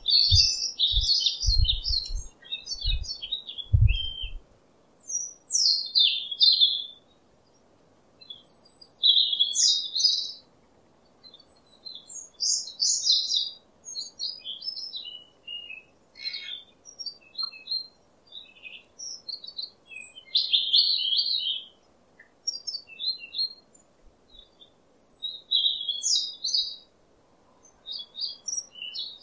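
Small songbirds chirping in short high phrases with brief pauses between them. A few low thumps come in the first four seconds.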